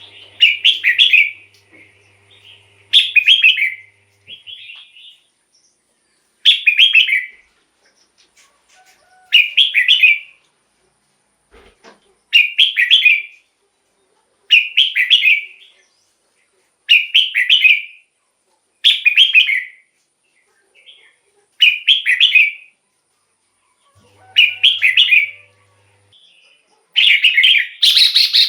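Red-whiskered bulbul singing: short phrases of about a second each, repeated every two to three seconds, about eleven in all, with the last two coming back to back near the end.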